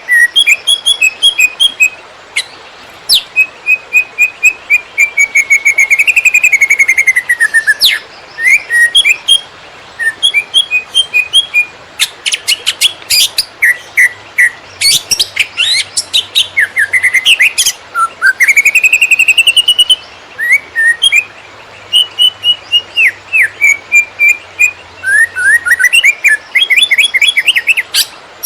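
Greater green leafbird (cucak ijo) singing a fast, varied, non-stop song of chirps, sliding whistles and rapid note series: the frantic 'konslet' style that bird keepers prize in this species.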